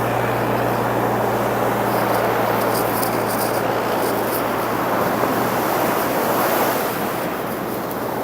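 Atlantic surf breaking on the beach, a steady rush of waves, with a low hum underneath that fades after the first couple of seconds.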